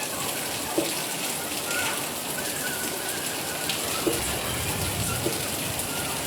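Steady rain falling and pattering on surfaces, with a few sharper, louder drops landing close by.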